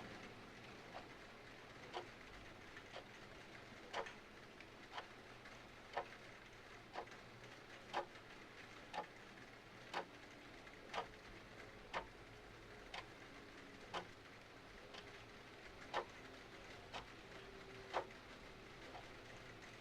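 Mechanical clock ticking once a second, alternating a louder tick with a softer tock, over a faint steady hiss of rain.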